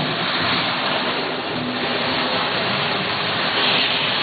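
Model train running along its track, making a steady, even whirring noise.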